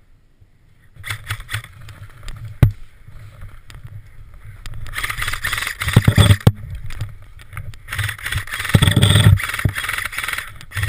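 Rustling, scraping and knocks of clothing and gear against a worn action camera as the wearer moves, with one sharp knock about two and a half seconds in and two louder, noisier spells later on.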